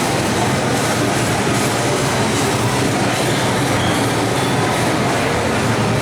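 Steady, loud rumbling and rattling noise of a running vehicle, with a low hum underneath.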